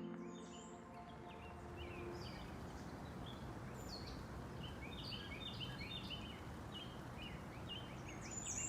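Small birds chirping outdoors: many short, repeated chirps over a steady background hiss. Music tails off in the first two seconds.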